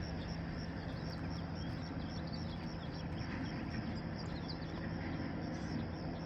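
Outdoor rural ambience: a steady low hum and noise bed with faint, scattered short bird chirps.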